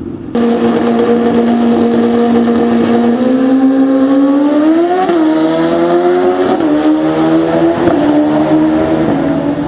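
Pro Street drag-racing motorcycle engine, loud, held at steady revs for about three seconds, then accelerating hard. Its pitch climbs and dips briefly at each of about four gear shifts.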